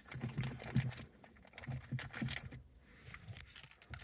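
Small items being handled and set into a plastic truck console organizer: light clicks, taps and rustling, with scattered pauses.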